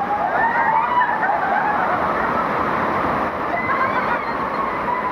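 Steady rush of a waterfall and stream, with faint distant voices calling over it.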